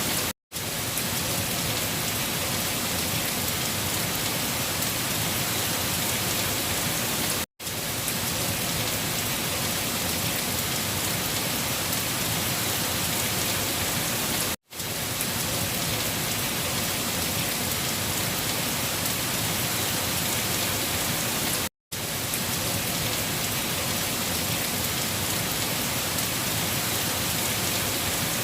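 Steady, even rain hiss, broken by a short silent gap about every seven seconds.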